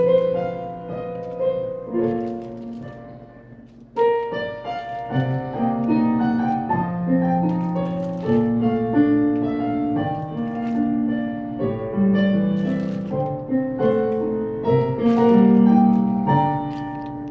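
Slow, calm piano music playing. It thins out about three seconds in, then picks up again with a strong note at four seconds.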